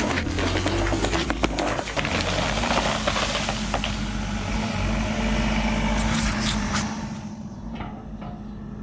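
Compact excavator's diesel engine running steadily, with a run of sharp clicks and knocks over the first three seconds; it grows quieter near the end.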